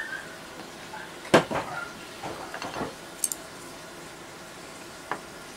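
Dishes and utensils clinking and knocking on a table: a cluster of knocks about a second in, a brief high clink a little later, and one more knock near the end.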